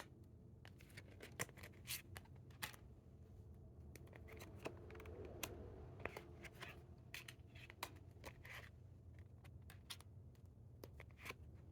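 Faint handling of tarot cards: scattered soft clicks and scrapes as cards are picked up, slid and laid down, over a low steady hum.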